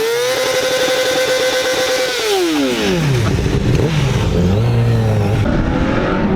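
An engine revved and held at high revs, then falling smoothly back to a low idle about three seconds in, followed by a few lighter throttle blips.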